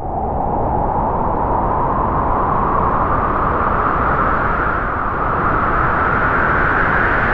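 Strong wind howling, its whistling pitch rising slowly through the gust over a deep rumble.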